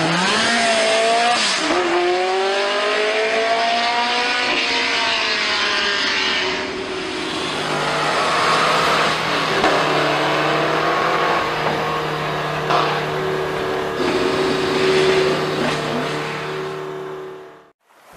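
A car engine revving, its pitch sweeping up and down over the first several seconds, then running at a steadier pitch before fading out quickly near the end.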